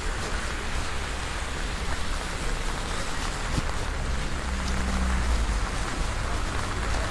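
Heavy rain falling, a steady hiss with scattered drops ticking, likely drumming on a large umbrella held over the microphone, and a low rumble underneath.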